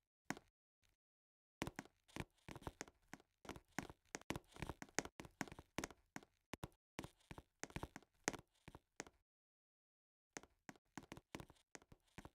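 Irregular run of faint knocks and taps, several a second, stopping for about a second near the end before starting again.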